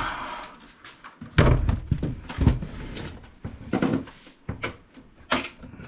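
Irregular knocks and clunks from a Dell Alienware desktop PC case being handled and pried at while it is taken apart.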